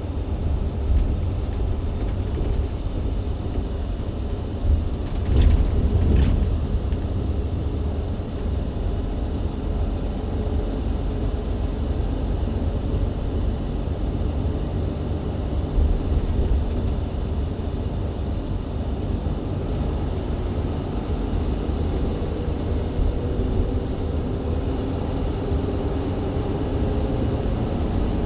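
Mercedes-Benz Citaro C2 LE hybrid bus with a Voith automatic gearbox, heard from inside the passenger cabin while driving: a steady low engine and drivetrain rumble with road noise. There are brief rattles about five to six seconds in and again at around sixteen seconds, and the engine tone grows a little stronger in the second half.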